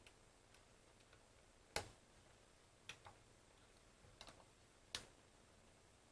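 A handful of sharp, short clicks at irregular intervals, the loudest a little under two seconds in, as the BeoCom 2 phone's keypad buttons are pressed and handled while being tested.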